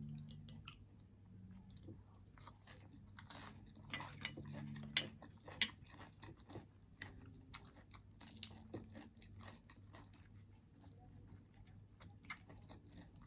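A person chewing and biting crunchy food: faint, irregular wet crackles and crunches, with a few sharper crunches about six and eight seconds in.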